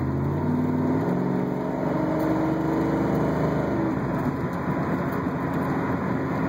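Chevrolet Camaro Z28's V8 engine pulling under acceleration while driving, its note rising steadily for about three seconds, then dropping away into a steady running noise.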